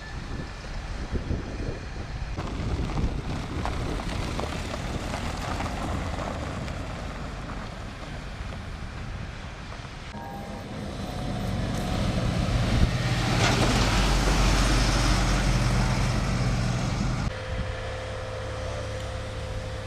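Wind buffeting the microphone, then a vehicle engine running that grows louder through the middle and stops abruptly about 17 seconds in.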